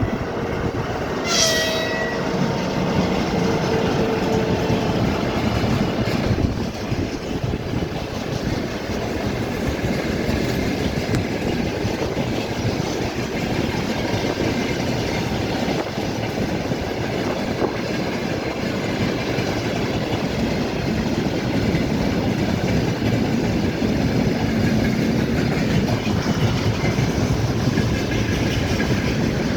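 A train passing on the rails: a steady, loud rumble of wheels and cars on the track. A held two-tone horn sound carries over into the first couple of seconds and then stops.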